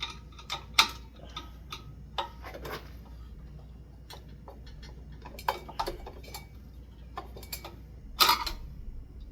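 Scattered metal clicks and light knocks as screws are worked out of a ceiling fan's top mounting by hand, with a small cluster about halfway through and a louder clatter near the end.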